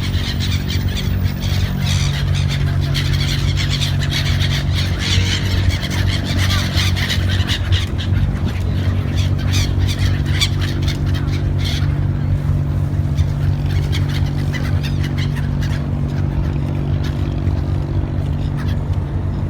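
Steady low drone of an abra's engine, with many birds calling over it through the first half or so, the calls thinning out after that.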